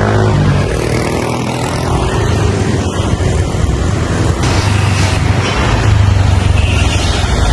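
Motorbike engine and road traffic running steadily, with rushing noise over a low engine hum.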